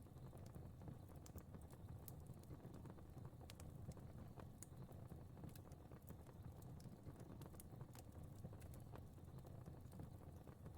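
Faint fireplace fire: a steady low rumble of flames with frequent small, irregular crackles and pops.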